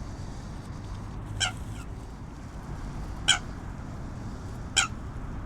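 A waterbird gives three short, sharp calls, evenly spaced about a second and a half apart, over low steady background noise.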